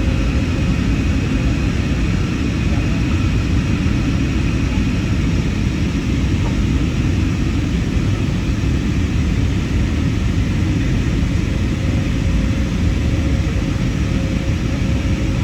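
Steady cabin rumble of an Airbus A320neo (CFM LEAP-1A engines), engine and airflow noise heard from a rear window seat. The level stays even throughout, with faint steady hum tones over the low rumble.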